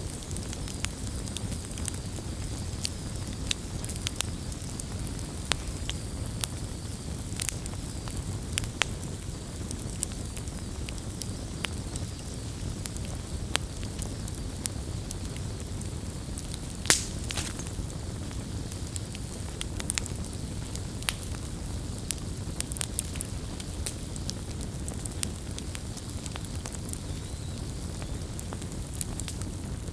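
Wood campfire burning: a steady low rumble of flames with irregular crackles and pops, one sharper snap about 17 seconds in.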